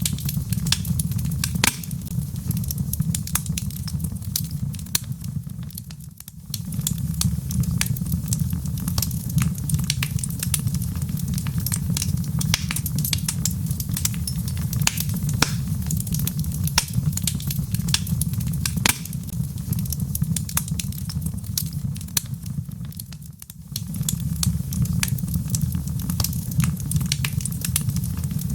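Wood fire burning in a fireplace, with dense irregular crackles and pops from the logs over a steady low rumble of flame. The rumble briefly drops away twice, about six seconds in and near twenty-three seconds.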